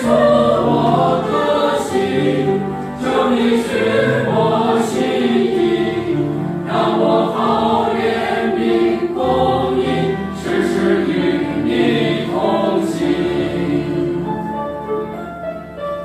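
A choir singing in several parts, fading away near the end.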